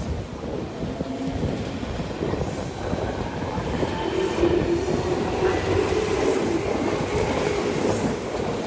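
A Tobu Railway electric commuter train pulling out of the station and gathering speed past the platform, its cars rumbling steadily, with a humming tone standing out in the middle stretch.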